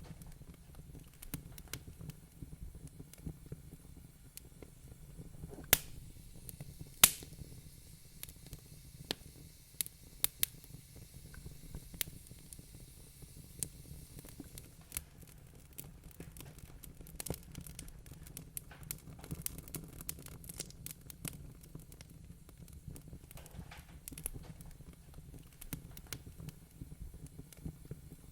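Fireplace wood fire crackling: irregular sharp pops and snaps, the loudest two about six and seven seconds in, over a low steady rumble of the burning fire.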